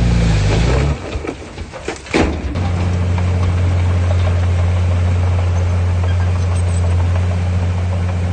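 Heavy diesel engine of earthmoving machinery running, easing off for about a second and a half. A single sharp knock comes just after two seconds in, then the engine settles into a steady low drone.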